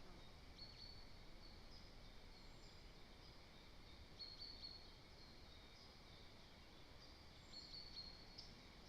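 Faint high, thin bird calls: short notes that come in three small clusters, over a quiet outdoor background.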